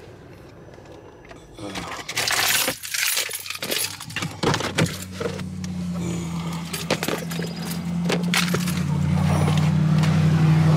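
Keys jangling and clicking as they are handled in a Jeep Wrangler JL's cabin. About five seconds in, the engine starts and settles into a steady idle hum that grows louder toward the end.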